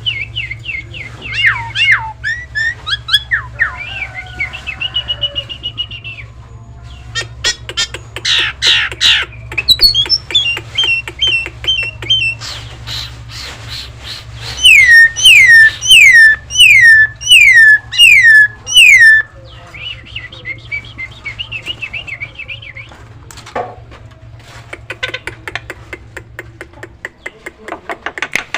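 Nias hill myna calling: a varied run of whistles, chattering notes and clicks, with a loud series of about six falling whistled notes, roughly one a second, in the middle. A steady low hum sits underneath and stops near the end.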